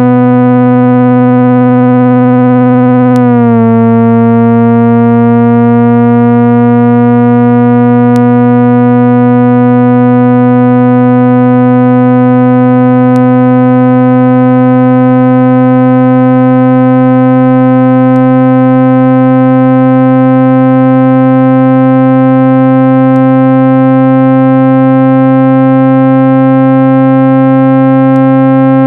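Loud synthesized speaker-cleaning tone for driving water and dust out of a phone speaker: a steady, buzzy tone with many overtones. A little over three seconds in it dips slightly in pitch, then rises slowly. Faint ticks come about every five seconds.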